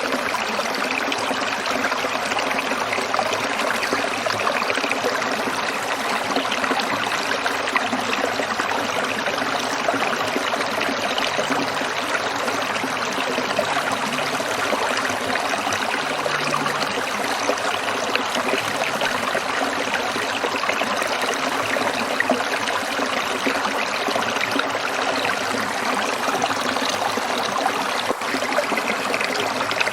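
Small stream trickling over rocks: a steady, even splashing and babbling of running water.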